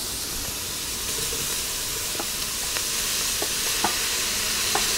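Meat, bacon, onions and garlic sizzling as they fry in a Dutch oven, stirred, with a few light taps and scrapes of the spoon against the pot. The sizzling grows a little louder as the returned meat releases its juice.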